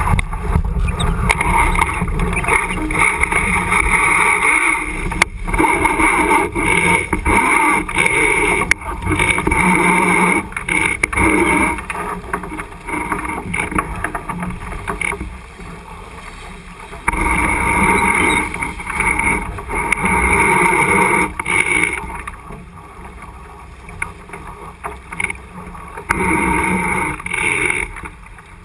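Wind and water noise aboard a J80 sailboat under way, heard through the onboard camera's microphone. It comes in long loud stretches that drop to quieter spells a few times.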